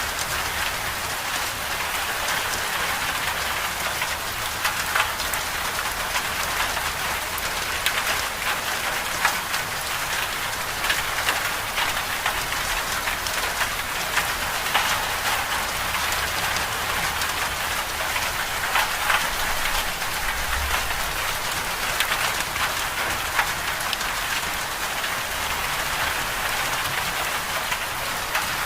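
Steady rain falling on a hard surface: an even hiss with many small sharp drop ticks scattered through it.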